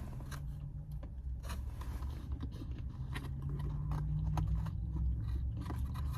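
A person biting into and chewing a Chick-fil-A Chicken Mini, a small chicken nugget sandwich on a soft roll, with scattered soft clicks and mouth sounds.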